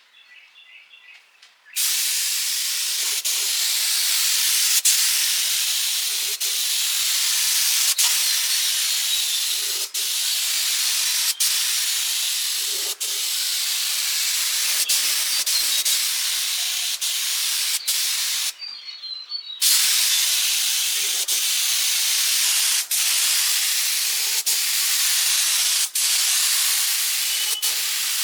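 Loud, steady hiss of compressed air blowing or spraying. It starts about two seconds in, breaks off for about a second partway through, then resumes, with brief dropouts every second or two.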